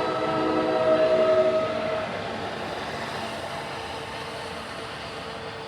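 NJ Transit train's horn sounding a multi-tone chord that stops about two seconds in. It is followed by the steady rumble of the train rolling past, slowly fading. The train is led by an ALP-45DP dual-mode locomotive.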